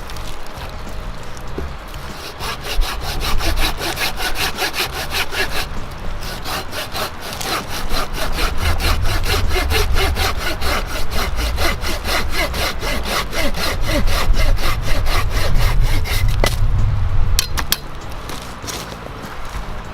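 Hand pruning saw cutting through firewood in quick, even back-and-forth strokes; the strokes stop about seventeen seconds in, followed by a few light knocks.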